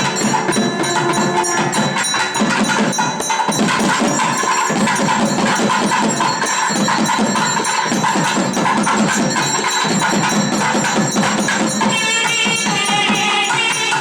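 Loud, dense traditional temple percussion music with rapid, continuous drum and bell-like strikes. About twelve seconds in, a reed wind instrument joins with a bending, ornamented melody.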